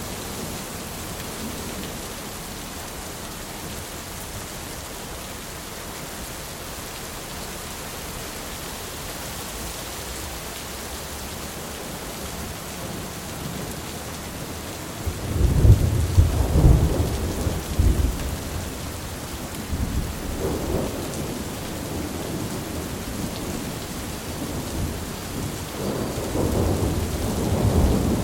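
Thunderstorm: steady rain falling, with a loud clap of thunder about halfway through that rumbles on for several seconds, and another rumble of thunder building near the end.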